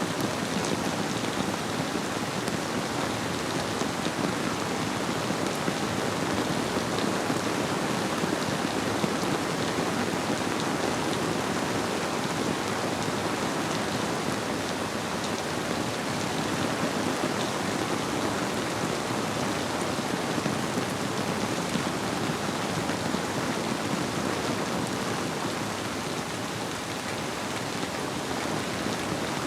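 Steady rain falling on surfaces, a dense even patter with scattered drop ticks, blended with the flow of a river. No thunder stands out.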